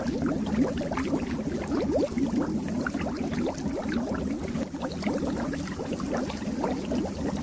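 Water bubbling steadily in a fish tank: a dense, unbroken stream of small bubbles making quick rising blips.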